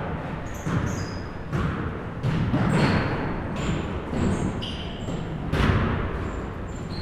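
Basketballs bouncing on a gym floor in an irregular series of thuds that ring in the hall, mixed with many short, high squeaks.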